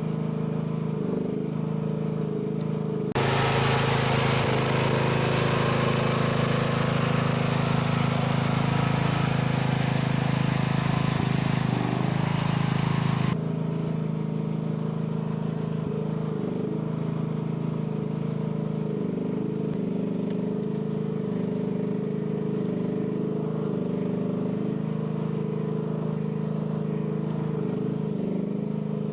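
AGT L12 mini excavator's engine running steadily. A louder, hissier stretch of about ten seconds starts and stops abruptly near the start.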